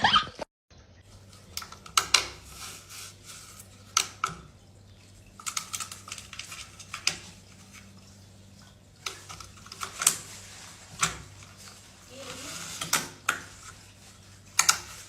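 Irregular light clicks and knocks, a dozen or more scattered through, over a faint steady hum.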